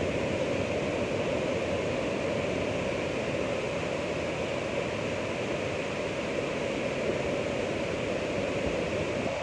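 Ocean surf: a steady wash of breaking waves with no single wave standing out.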